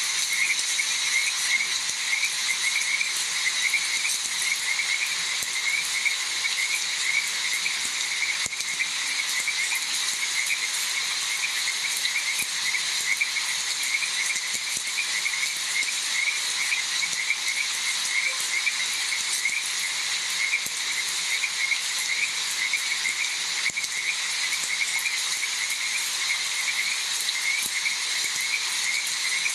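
Steady rain falling, with a chorus of frogs calling in quick, repeated chirps throughout.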